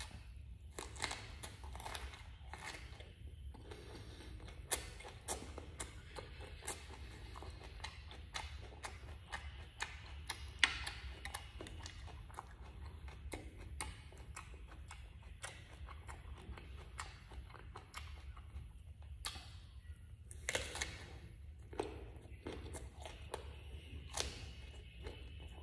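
A person eating close to the microphone: irregular chewing clicks, crunches and mouth smacks, over a steady low hum.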